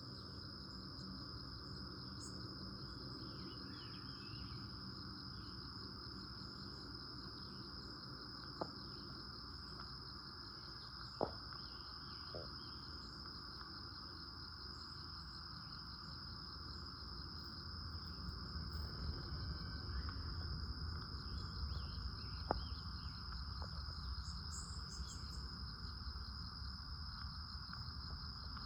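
Insects trilling steadily at a high pitch, with faint bird chirps here and there. A few sharp clicks stand out, the loudest about eleven seconds in and again past the twenty-second mark.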